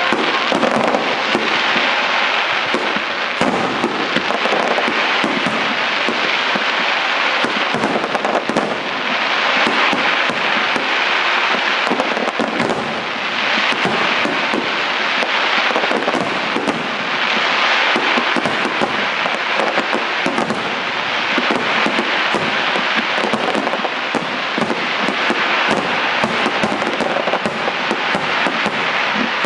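Fireworks finale: a dense, continuous barrage of shell bursts and crackling, swelling and easing in waves every few seconds.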